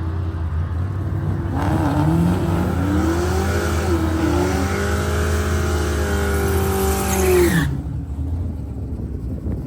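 Drag-racing Ford Mustang making a pass: engine note rising hard under acceleration, holding high for several seconds, then dropping away and cutting off, over a steady low rumble.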